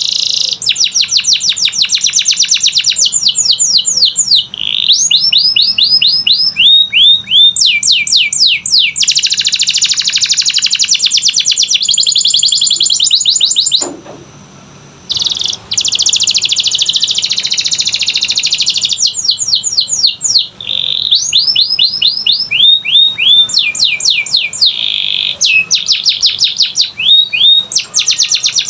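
Canary singing a long song of fast rolls and runs of repeated notes that sweep down in pitch, with a short break about halfway through.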